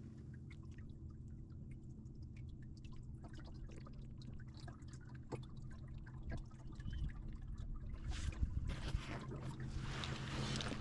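Water trickling and dripping against a kayak, with scattered small ticks, over a low steady hum. The water sounds grow louder in the last few seconds.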